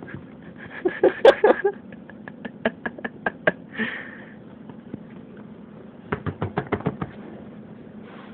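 A series of sharp clicks and knocks: a dense cluster about a second in, a run of single clicks, a short scraping burst about four seconds in, then another quick run of clicks after six seconds.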